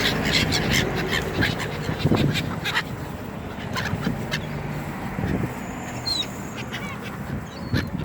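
A flock of gulls and waterfowl calling, a mix of squawks and honks. Sharp clicks come thickly over the first three seconds, and short high calls follow in the second half.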